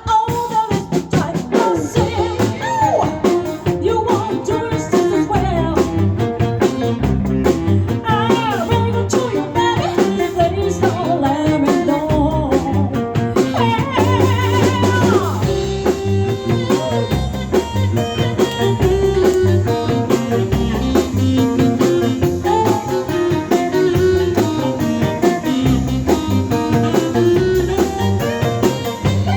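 A live band playing a blues-style song with a drum kit, bass and guitar, and melody lines that bend in pitch.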